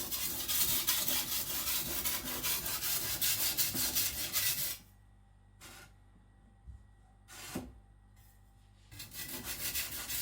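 Chinese cleaver's steel edge stroked back and forth on the coarse side of a cheap aluminium oxide whetstone, a steady run of scraping strokes. The strokes stop for about four seconds a little before the middle, with a couple of faint knocks, then start again near the end.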